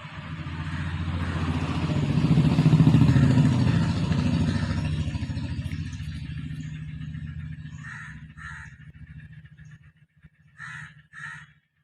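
A motor vehicle's engine passing by, swelling to its loudest about three seconds in and fading away over the next several seconds. Crows caw several times near the end.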